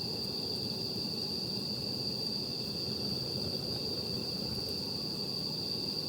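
A steady, unbroken high chirring of night insects over a low, even background hiss. There are one or two faint crackles from the campfire.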